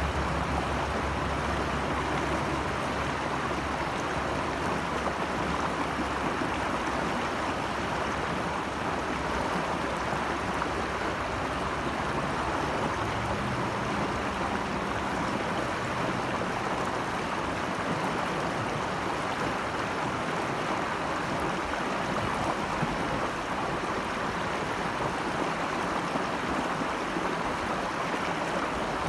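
Flowing stream water rushing steadily, an even wash of sound with no breaks.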